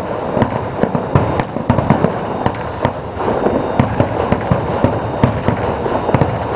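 Fireworks bursting: a dense, irregular run of sharp crackles and bangs from exploding shells.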